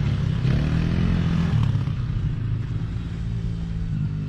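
Small single-cylinder four-stroke engine of a youth dirt bike or ATV running steadily at low speed, easing off a little toward the end.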